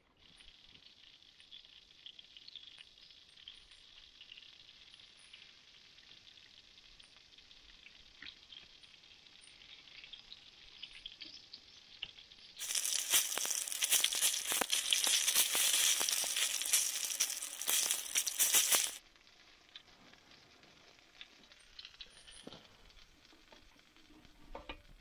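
Chicken and potatoes frying in a pan on a small wood-burning chip stove: a quiet steady sizzle with light crackles, much louder and brighter for about six seconds in the middle, starting and stopping abruptly.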